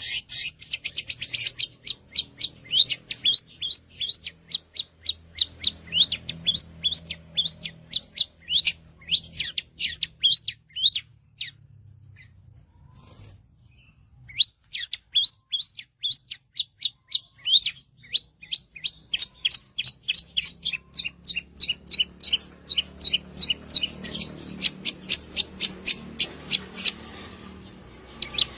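Long-tailed shrike (cendet) singing a rapid run of sharp, high chirping notes, several a second. It breaks off about eleven seconds in for roughly three seconds, then starts again.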